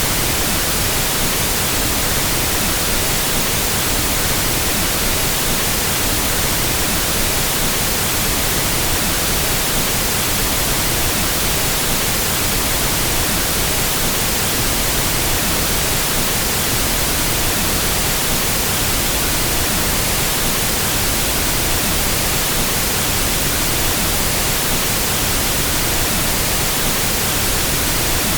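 Pink noise test signal, a steady, even hiss across all frequencies, used as a reference for equalizing sound systems.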